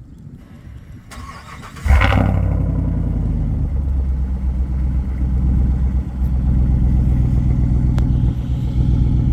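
Chevrolet Silverado Trail Boss's 5.3-litre V8 with its muffler deleted, cold-started: the starter cranks briefly, the engine catches about two seconds in with a sudden loud flare, then runs at a steady, loud, deep idle. The cold engine is a bit louder than usual.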